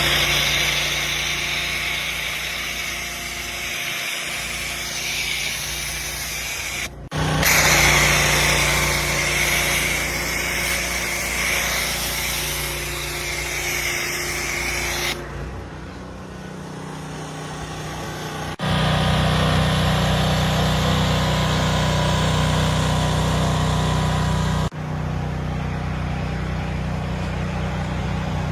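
Pressure washer spraying a semi truck, a steady hiss over a low engine hum, in several stretches that change abruptly where the clips are cut together.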